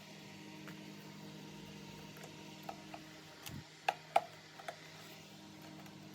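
A few light clicks and taps, two sharper ones close together about four seconds in, over a steady low hum.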